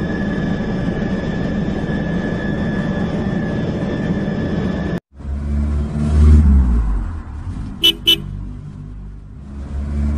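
A battery toy helicopter whirs steadily with a high whine, cutting off sharply about five seconds in. Then a car engine rumbles, swelling and fading, with two quick horn toots close together near the middle.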